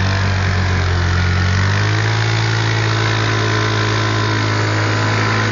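Motor vehicle engine running steadily at a low, even speed, close and loud, its note shifting slightly about two seconds in.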